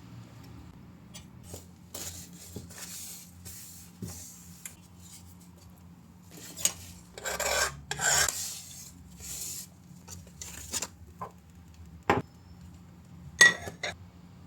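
Scraping and rustling of things being handled by hand, in several stretches, with two sharp knocks near the end over a faint low hum.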